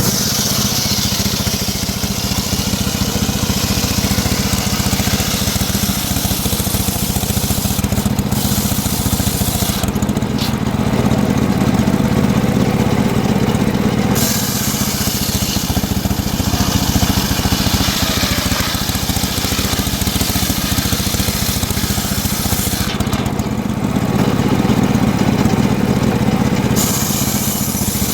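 Homemade circular sawmill ripping a mahogany log, with the saw's power unit running steadily underneath. The blade's shrill cutting hiss drops out briefly a few times, likely between cuts or as the feed eases.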